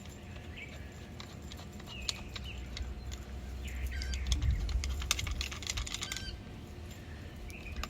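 Small plastic-and-metal clicks and rattles of a pressure washer wand fitting being handled and threaded on by hand, thickening into a quick run of clicks about five seconds in. Birds chirp faintly in the background.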